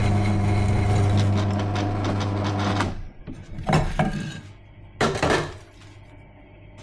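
Electric drill running steadily under load while drilling out spot welds in a steel bracket, stopping about three seconds in. Then a few separate metallic knocks and clanks.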